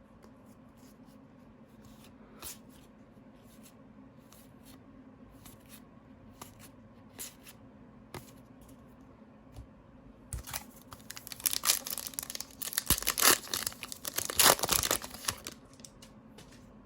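Trading card foil pack being torn open and crinkled: scattered light handling clicks for the first ten seconds or so, then several seconds of tearing and crinkling wrapper.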